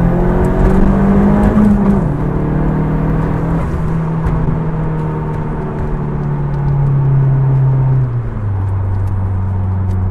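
Fiat Coupé T16's turbocharged four-cylinder engine pulling under way, heard from inside the cabin. The engine note climbs, drops in a step about two seconds in, holds fairly level, then falls again a little after eight seconds.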